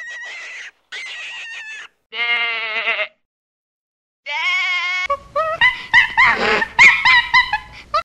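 Sheep bleating: two short raspy calls, then single wavering bleats, then from about five seconds in many bleats overlapping as from a flock.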